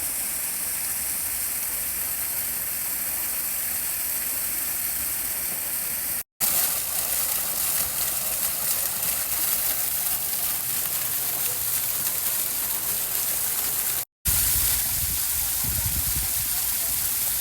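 Steady splashing rush of water falling in small decorative waterfalls and fountains. The sound breaks off for a split second twice, about six and fourteen seconds in, and a low rumble joins it in the last few seconds.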